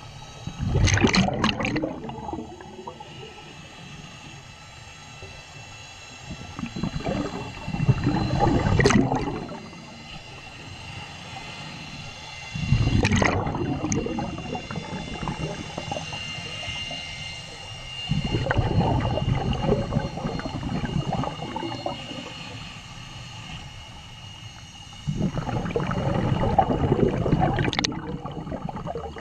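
Scuba diver breathing through a regulator underwater: five loud rushes of exhaled bubbles every few seconds, with quieter gaps between them for the inhales. A faint steady high whine runs underneath.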